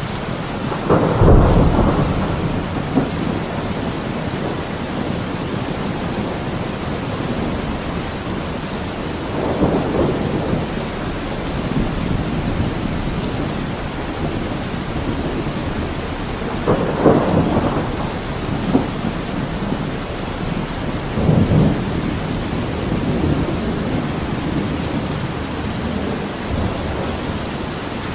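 Thunderstorm: steady heavy rain with repeated rolls of thunder, the loudest about a second in and others spread through the rest.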